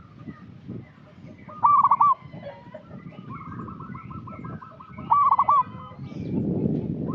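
Zebra dove (perkutut) cooing: two loud looping coos, about two seconds in and about five seconds in, with a fast run of short repeated coos between them. A low rushing noise builds near the end.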